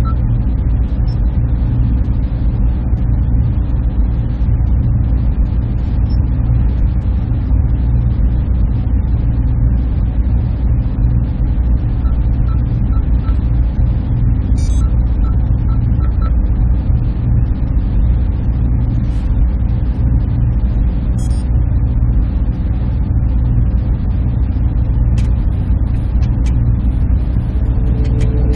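Server room ambience: the machines' cooling fans running in a steady low drone, with a few faint brief clicks over it.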